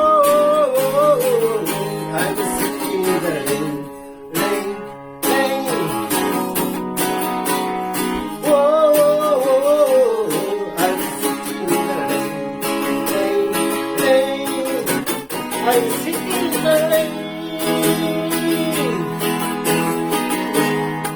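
Acoustic guitar strummed steadily in an instrumental passage of a solo guitar-and-voice performance. A long, wavering melody line is held over the chords three times, and the guitar drops out briefly about four seconds in.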